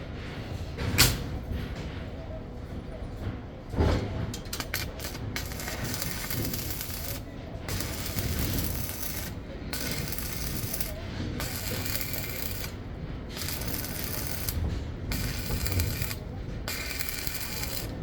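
Two sharp knocks, then a run of long scraping or rubbing strokes against a hard surface, each lasting about a second or more with short breaks between them.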